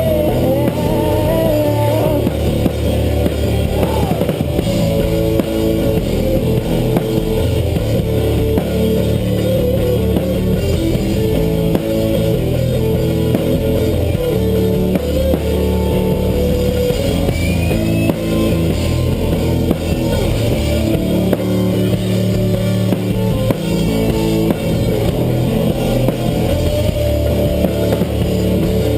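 Rock band playing an instrumental passage with no vocals: drum kit, guitar and bass keep a steady, loud groove.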